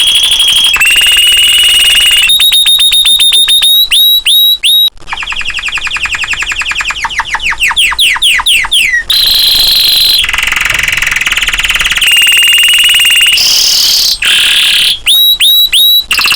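Domestic canary singing in full voice: long rolling trills and held whistled notes, with a run of fast falling notes in the middle.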